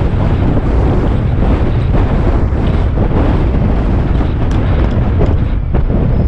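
Loud, steady wind rush buffeting the microphone on a moving motorcycle, with the bike's engine and road noise underneath.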